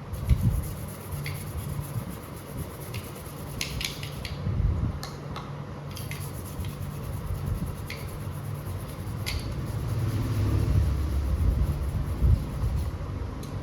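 Small objects and tools being handled on a workbench: scattered sharp clicks and light clatter, about six in all, over a low steady hum and a fluctuating hiss.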